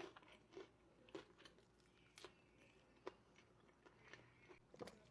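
Faint chewing with a few soft, scattered mouth clicks, spaced about a second apart.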